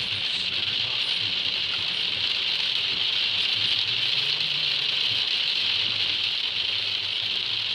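Steady hiss of falling rain, even throughout with no distinct drops or impacts.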